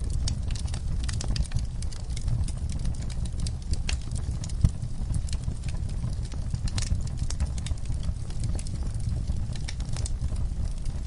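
Wood fire burning, with a steady low rumble and irregular crackles and pops throughout, one sharper pop about halfway through.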